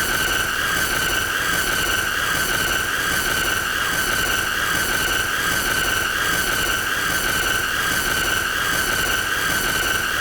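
A continuous high-pitched squeal, held at one steady pitch that wavers only slightly, over a hissy background.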